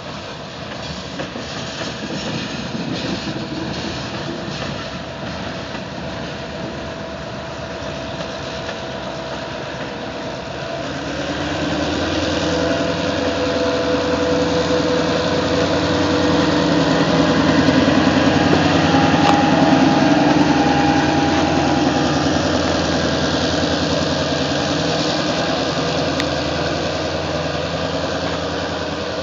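Freight train of covered hopper cars rolling past, with rail and car noise; from about ten seconds in, the diesel engine of an EMD locomotive shoving at the rear of the train grows louder as it passes, peaks about two-thirds of the way through, then fades as it moves away.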